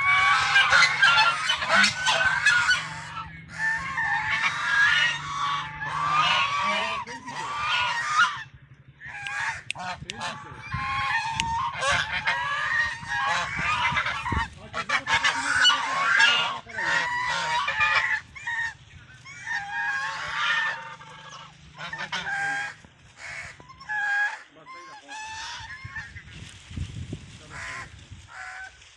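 A flock of birds calling loudly, many harsh overlapping calls at once, thinning out near the end, over a steady low hum that stops a few seconds before the end.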